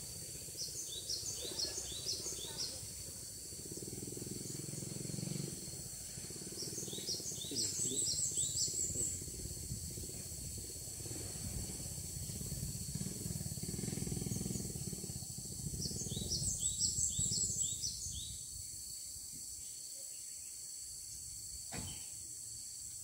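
Cinereous tit (gelatik batu) calls, used as the lure for trapping them: three short series of quick, high repeated notes, about eight seconds apart, over a steady high insect drone.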